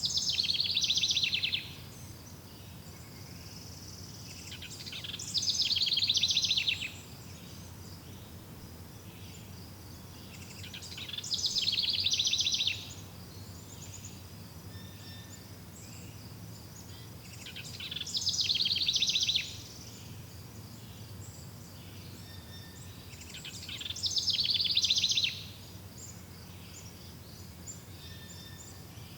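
A songbird repeating the same fast trilled phrase five times, about every six seconds; each phrase lasts about a second and a half, swells, then stops abruptly. A faint steady high buzz runs underneath.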